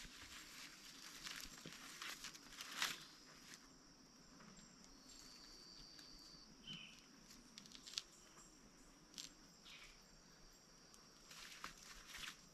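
Quiet forest ambience: a faint steady high hum with scattered light rustles and snaps, and a brief high chirp about halfway through.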